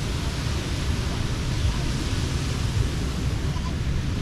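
Steady wash of ocean surf at a beach, an even hiss with a low, uneven rumble underneath.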